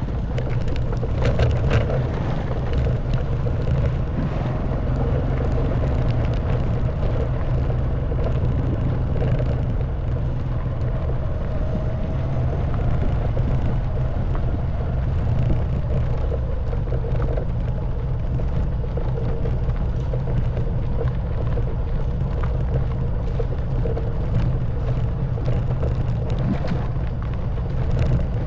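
Honda Wave 110cc motorcycle's single-cylinder four-stroke engine running steadily at low speed while riding a rough stone and gravel track, with many short knocks and rattles as the bike jolts over loose stones.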